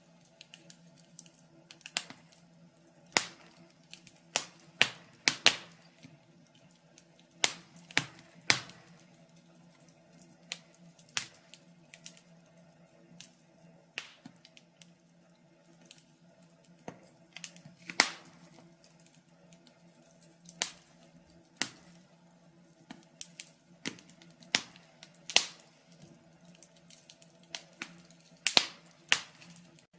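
Wood fire crackling: burning logs giving off irregular sharp pops and snaps, several a second at times, with a few louder cracks, over a faint steady low hum.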